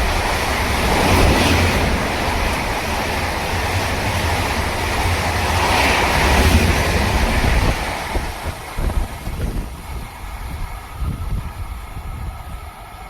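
A train passing at speed: a loud, steady rush of wheels and air with wind buffeting the microphone. It dies away in gusts after about eight seconds.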